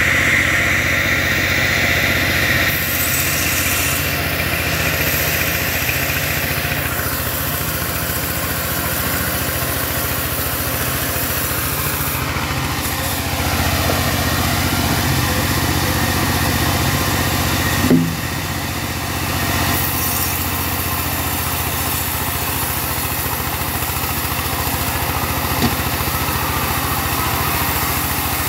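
Engine of a homemade portable bandsaw sawmill running steadily, with a whine that dips in pitch and climbs back in the middle, and a single sharp knock about eighteen seconds in.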